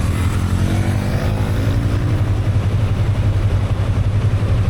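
Motorcycle engine running under way, with a steady low drone throughout. A higher engine tone climbs in pitch over the first two seconds as it speeds up.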